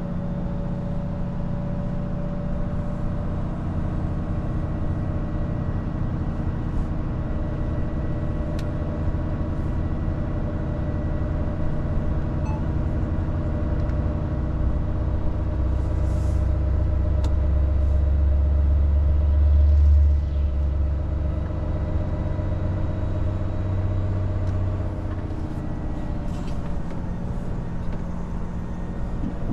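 Volvo FH 500 truck's diesel engine and road noise, a steady low drone heard from the cab. The drone builds louder over several seconds past the middle, then drops off suddenly about two-thirds of the way in.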